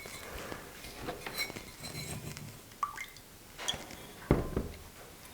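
Ceramic mugs being handled: light clinks and short ringing taps of pottery against pottery, with one heavier knock a little after four seconds in.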